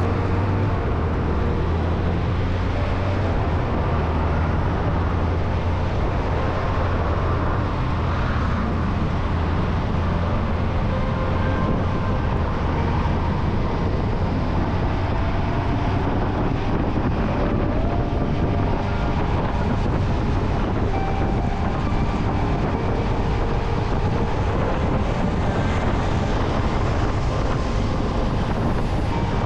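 Motorcycle riding at a steady cruise, heard from on the bike: a constant low engine drone under steady wind and road noise.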